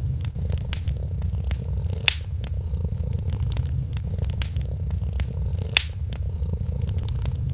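A cat purring steadily under the crackle of a wood fire, with scattered pops and two sharper pops, about two seconds in and near six seconds.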